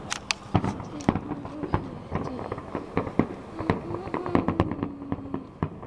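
Fireworks going off: a rapid, irregular string of sharp bangs and crackling pops.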